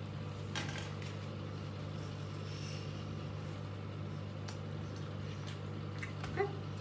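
Steady low hum of a fan or appliance in a small bathroom, with a few faint clicks and one short sound near the end.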